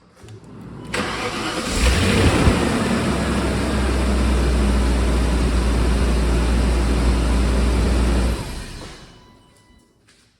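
BMW 540i M Sport engine cold-starting: it cranks about a second in, catches with a brief rev flare around two seconds in, and settles into a steady cold-start idle. The sound dies away from about eight seconds in.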